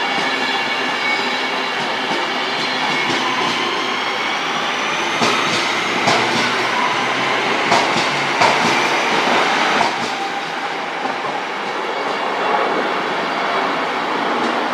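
A train running on the rails, loud and steady, with a rising whine in the first few seconds. A run of sharp clicks and knocks from the wheels comes in the middle.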